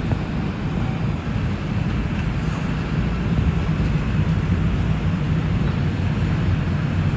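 NYC Subway R142 train running between stations: a steady, loud rumble of wheels on rail and the car's running gear, with a low hum underneath.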